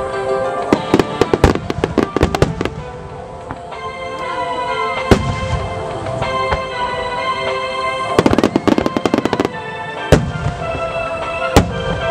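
Large aerial firework shells bursting in rapid volleys: clusters of sharp bangs in the first couple of seconds and again about eight seconds in, with single booms between. Music plays underneath.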